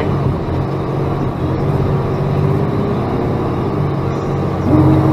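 Freightliner plow truck's diesel engine running, heard from inside the cab. Near the end it gets louder and a steady whine joins in as the truck works to push through deep snow without getting stuck.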